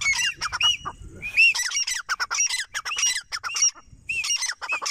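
Grey francolin calling: a fast run of short, arched, high-pitched notes in three bouts, with brief gaps about a second in and near the four-second mark.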